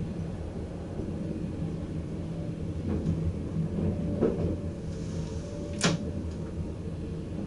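Cab of a VIRM double-deck electric train running, a steady low rumble with a few sharp knocks, the loudest about six seconds in, as the wheels cross points and rail joints.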